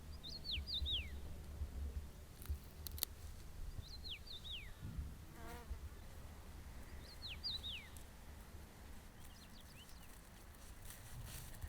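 A songbird repeating a short song phrase of quick whistled notes that fall steeply in pitch, three times about three and a half seconds apart and a fainter fourth time near the end. A brief insect buzz comes about halfway through, over a low rumble of wind.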